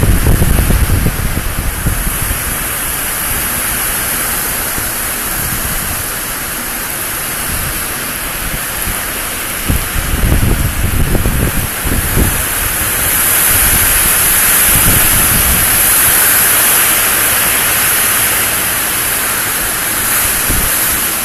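Heavy rain and gale-force wind: a steady hiss of rain, with gusts buffeting the microphone at the start and again about ten seconds in.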